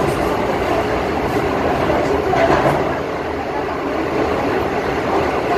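Steady running noise of a moving passenger train, heard from inside the coach, swelling slightly about halfway through.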